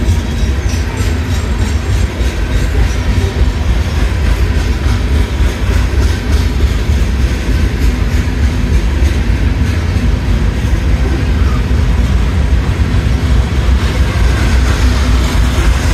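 Loaded coal hopper cars of a freight train rolling past, a steady loud rumble of steel wheels on rail.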